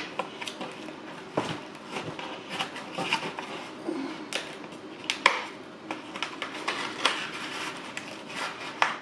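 Takeout food containers being handled on a table: irregular light knocks, taps and rubbing, with one sharper knock about five seconds in.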